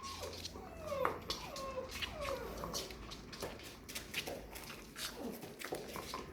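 Labrador puppies whining and whimpering: a run of short, high whines that each fall in pitch, coming one after another, with sharp clicks among them.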